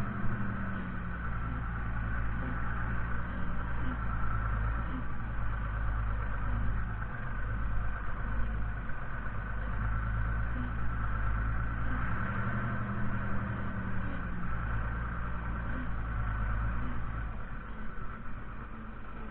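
FiatAgri 130-90 tractor's diesel engine running steadily, its pitch rising and easing back twice; it gets somewhat quieter near the end.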